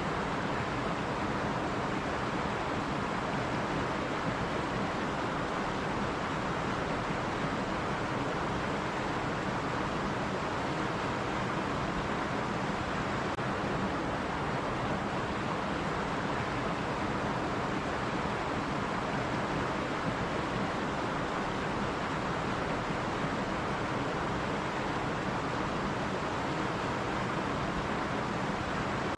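Stream water running steadily over rocks, an even rushing with no breaks.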